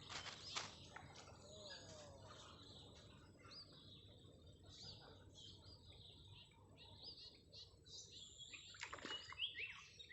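Faint birdsong: several birds chirping, with many short, repeated rising chirps. A brief rustle or knock sounds about half a second in and again near the end.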